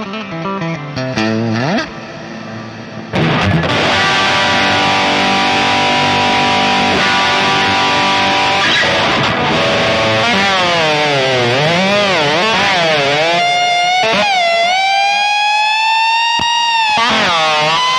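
Distorted electric guitar, a Jackson SL2 Pro Soloist: a few picked notes and a falling slide, then from about three seconds in a loud sustained note held on, and from about ten seconds in wide dives and wobbles in pitch from the tremolo bar.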